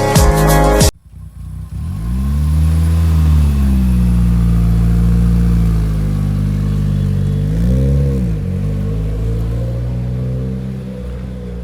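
Mitsubishi Lancer Evolution VIII MR's tuned turbocharged 4G63 inline-four running, revved up and back down about two seconds in and blipped again briefly near eight seconds in. The first second is music that cuts off suddenly.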